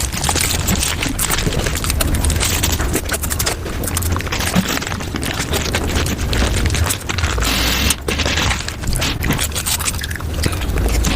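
Eating sounds of chocolate and ice cream played back at five times speed: a dense, rapid run of chewing, crunching and wet mouth clicks over a low rumble.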